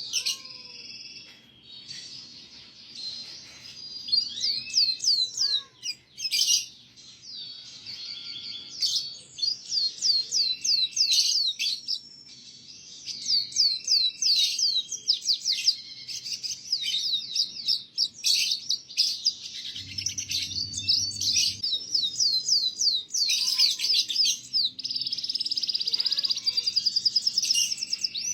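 Domestic canary singing, a long run of rapid trills and quickly repeated sweeping notes with brief pauses between phrases; the kind of loud, varied song played as a tutor song for young canaries.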